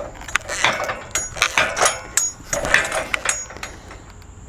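A heavy walnut log being turned by hand on a steel sawmill bed, giving a quick run of knocks and metallic clinks, some with a brief ring, that dies away after about three and a half seconds.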